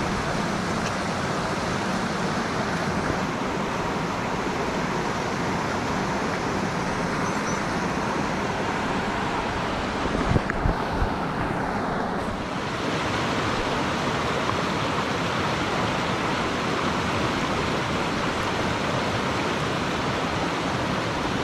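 Mountain stream water rushing over rocks, a steady even rush. A few low bumps about halfway through.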